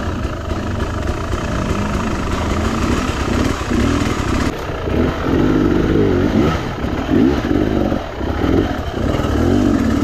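300 cc two-stroke enduro dirt bike engine being ridden on a trail, the revs rising and falling over and over, more sharply in the second half.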